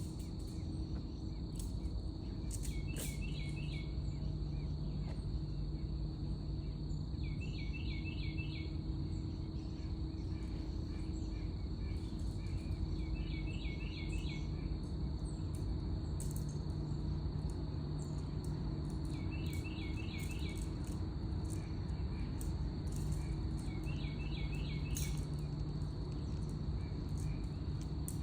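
Insect chorus: a steady, high, unbroken drone. A short burst of chirps repeats about every five and a half seconds over a low steady hum and rumble.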